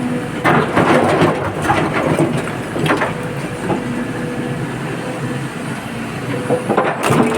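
Excavator's diesel engine running under load, with irregular clattering and crunching of rock and earth being dug and dumped into a truck body.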